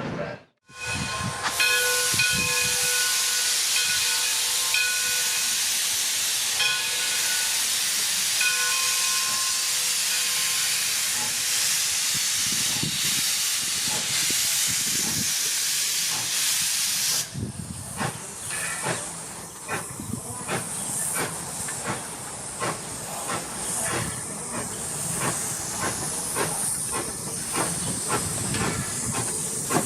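Steam hissing loudly from the 1897 Baldwin 4-4-0 locomotive D&LN No. 7, with a steady pitched tone sounding on and off over the hiss several times. About seventeen seconds in, the hiss cuts off suddenly, leaving a run of quieter clacking knocks and rumble.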